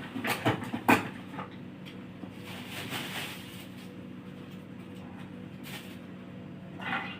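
A few sharp knocks in the first second, then a steady low hum.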